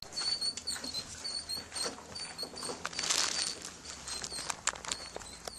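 Light rain starting: scattered raindrops ticking and pattering, with small birds chirping high and repeatedly.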